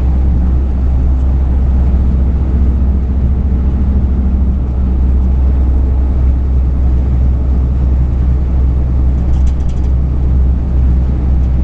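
Truck's engine and road noise heard from inside the cab: a loud, steady low rumble with a faint engine hum above it.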